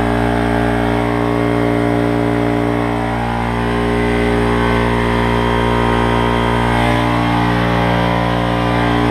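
Craftsman air compressor pump running steadily, building pressure in the tank, freshly rebuilt with new piston rings and cylinder.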